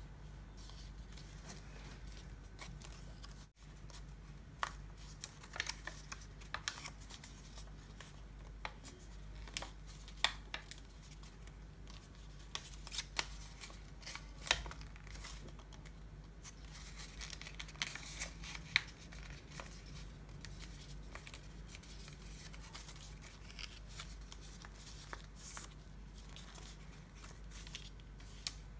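A sheet of paper being folded and creased by hand, with scattered sharp crackles and rustles, over a faint steady low hum.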